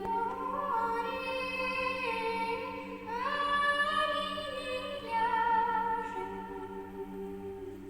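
A female soloist sings a slow Nekrasov Cossack spiritual verse unaccompanied, her melody sliding up into long held notes, over a men's choir holding a steady low drone.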